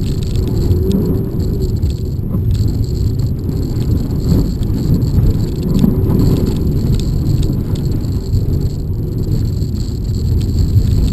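Volkswagen GTI's turbocharged four-cylinder engine running hard, heard from inside the cabin over a heavy rumble of tyres on snow and ice. The engine pitch rises and falls as the throttle comes on and off.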